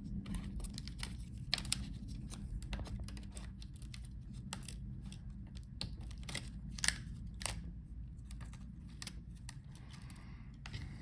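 Irregular small clicks and taps of a screwdriver and fingers working inside an open laptop, unplugging cable connectors and undoing screws on the motherboard, with a sharper click about seven seconds in.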